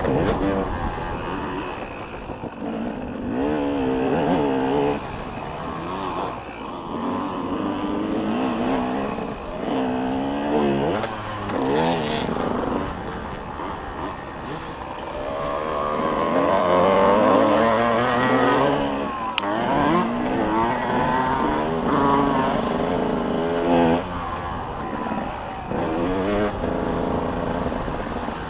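Several motocross dirt bikes' engines revving, their pitch climbing and dropping again and again through gear changes as they ride.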